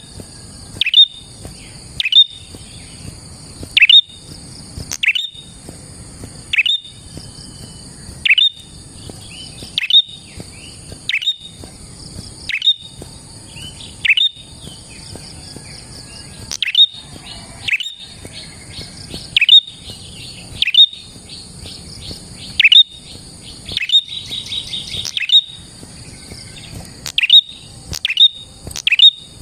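Prinia (prenjak) calling: sharp, loud notes sweeping downward, repeated about once a second, breaking into a fast rattling trill about two thirds of the way through. A steady high insect-like hiss runs beneath.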